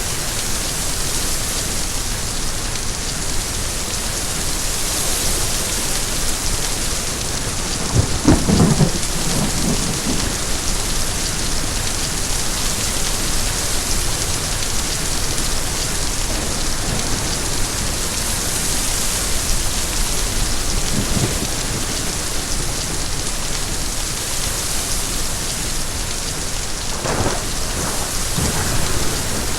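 Steady heavy rain, with rolls of thunder: the loudest is a low rumble about eight seconds in, and fainter ones come later and near the end.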